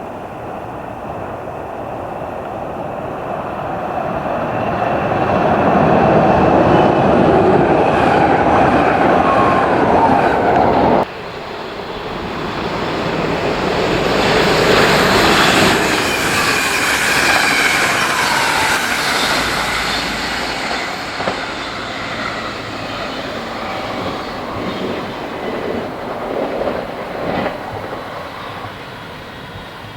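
Trains passing through a station: a train's running noise builds up loud, cuts off abruptly about a third of the way in, then a second passage swells and slowly fades, with faint gliding wheel squeal.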